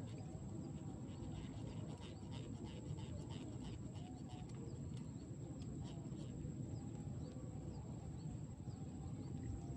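Outdoor riverside ambience: a steady low rumble, with faint bird chirps and a run of light ticking from about a second and a half in to about six and a half seconds in, over a thin steady high whine.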